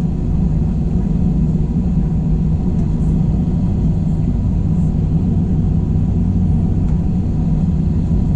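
Steady engine and cabin noise inside an Airbus A321: a constant low rumble with a few steady hums underneath.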